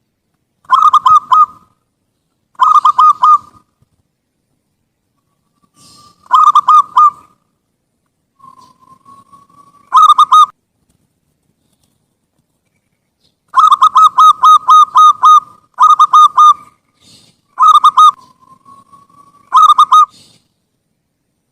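Zebra dove (perkutut) cooing: bursts of quick, staccato notes in groups of a few, repeated every couple of seconds, with one longer run of about nine notes midway. A soft, slowly rising note comes before some of the groups.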